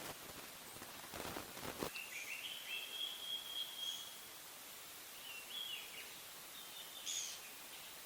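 A rustle for the first two seconds, then a bird calling in held, clear notes with small pitch steps, once for about two seconds and twice more briefly later on.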